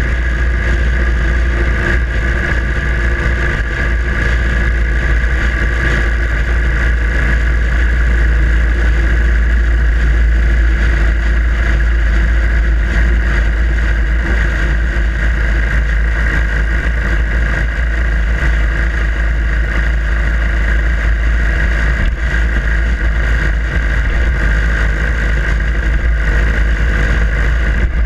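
Harley-Davidson Iron 883's air-cooled V-twin engine running steadily while the motorcycle is ridden, with no big changes in engine speed.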